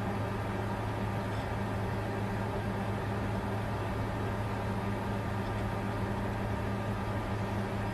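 Bitcoin mining rig running: a steady whirring noise of cooling fans with a low, constant hum underneath, unchanging throughout.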